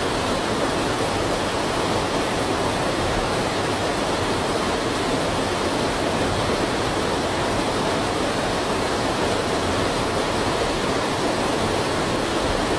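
Steady, even rushing of a huge mud flow surging into a river, like a waterfall.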